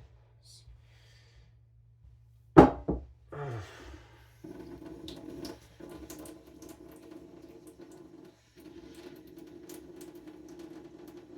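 A single sharp knock, then a steel knife blade scraping steadily back and forth on a whetstone, with brief breaks between strokes.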